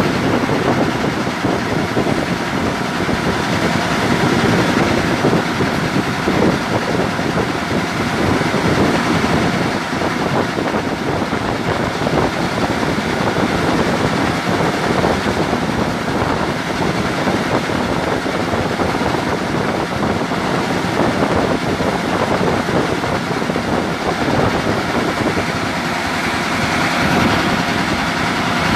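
Mitsubishi 8DC10 V8 diesel engine running steadily, a dense, even mechanical noise.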